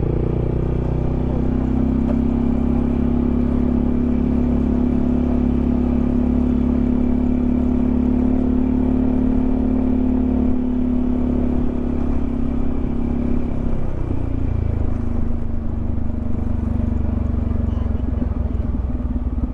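Yamaha XMAX 300 scooter's single-cylinder engine running at a steady cruising speed. About fourteen seconds in, the engine note drops lower and turns uneven as the scooter slows.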